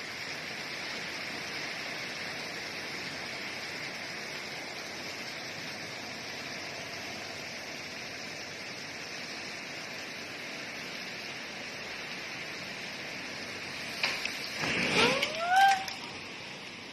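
Steady outdoor background hiss with no clear source. About fourteen seconds in comes a brief louder stretch holding a few short rising calls, from a voice or an animal.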